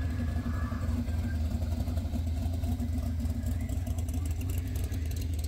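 Car engine running at a steady idle, an even low rumble.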